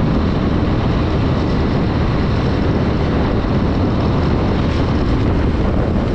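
Wind buffeting the microphone of a moving motorcycle, with the Honda Dream 110's single-cylinder engine running steadily underneath.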